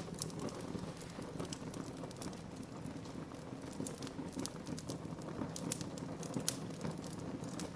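Wood fire burning in a fireplace: a steady low rumble of the flames with irregular sharp crackles and pops from the burning wood, several a second.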